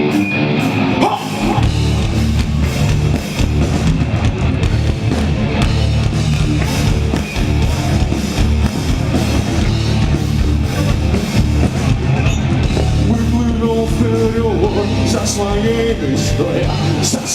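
Live rock band playing loud with distorted electric guitars, bass and drum kit, an instrumental passage between sung lines.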